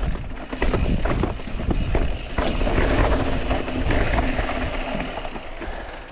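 Mountain bike riding down a rough rocky trail: wind rumbling on the microphone, with tyres and bike clattering over rocks in many short knocks, fading away near the end.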